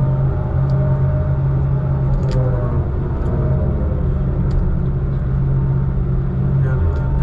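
Heavy diesel engine running steadily with a deep, even drone, and a few faint clicks and rattles over it.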